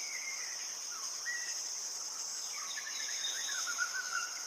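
Natural ambience of a continuous high-pitched insect drone, with scattered short birdcalls that glide and warble, a run of them near the end.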